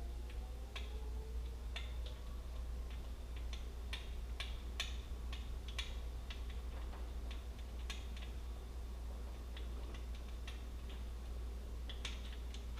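Scattered light clicks and ticks, unevenly spaced and a few a second, over a steady low hum.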